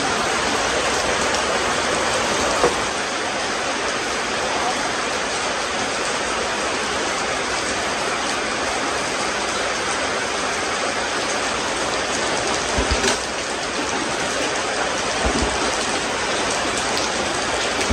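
A steady, even hiss like falling rain, with a short knock about two and a half seconds in and a few low thuds later on.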